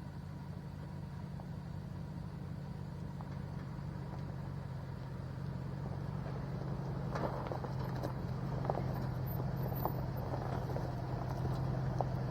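Pickup truck's engine running steadily as it drives a rough dirt trail, growing slowly louder. From about seven seconds in, scattered clicks and knocks of rocks and gravel under the tyres join it.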